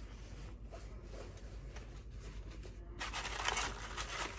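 Paper sheets rustling and crinkling as they are handled, starting about three seconds in after a quiet stretch.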